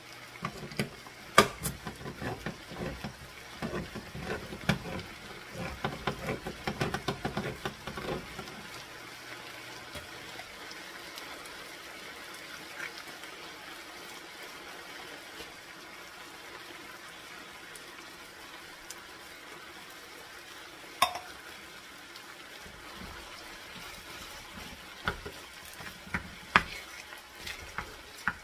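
Chicken legs sizzling in sauce in a skillet, a steady frying hiss. Over it come knocks from the soup can and a wooden spatula against the pan: a dense scatter in the first third, one sharp knock about two-thirds through, and a few more near the end.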